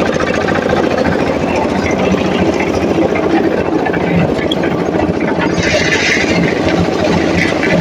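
Heavy engine of road-construction machinery running steadily. A short hiss sounds about six seconds in.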